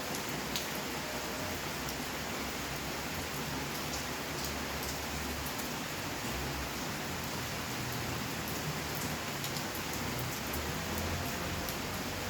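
Steady rainfall, an even hiss with scattered close drops ticking on surfaces.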